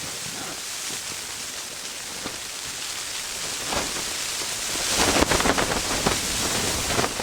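Blizzard wind gusting: a steady rushing hiss that swells about five seconds in, with a burst of rapid rattling.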